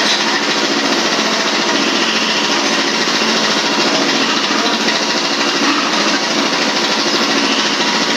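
A small engine running steadily at a fast, even chatter, with no change in speed.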